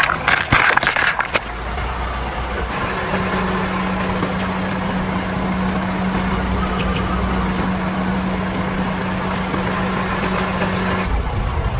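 A car's engine running at a steady hum while the car rolls. In the first second and a half, a cluster of sharp cracks and crunches as something is crushed under its tyres.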